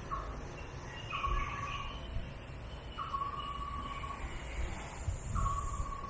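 A bird calling repeatedly: four whistled notes a second or two apart, each sharp at its start and then held level.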